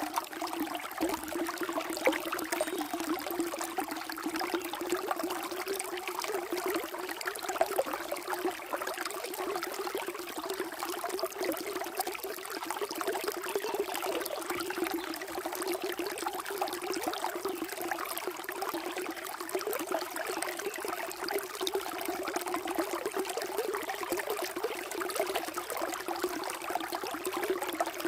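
Flowing water running steadily, with a continuous rush full of small splashes and trickles.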